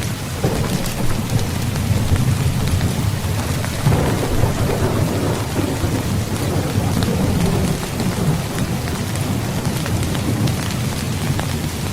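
Heavy rain falling steadily, with a low rumble of thunder underneath that swells about four seconds in and rolls on through the rest.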